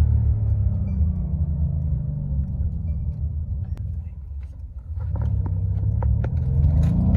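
Mercedes-AMG C63's twin-turbo V8 exhaust, its revs falling away to a low point about four seconds in, then climbing again from about five seconds. A scatter of sharp clicks sounds as the revs rise.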